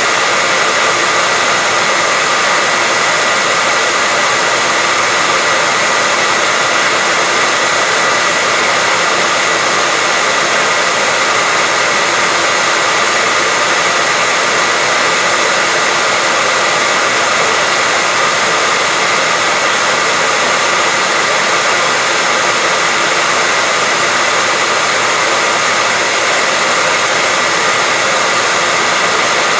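Hair dryer running steadily: a continuous, unchanging hiss with a steady whine, played as a sleep sound for a baby.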